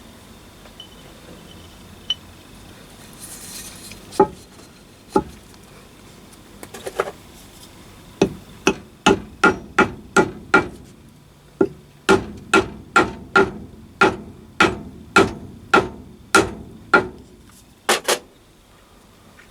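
Hammer tapping on metal, each blow ringing briefly. After two single taps, it comes in a steady run of about two to three blows a second, ending with a quick double blow near the end.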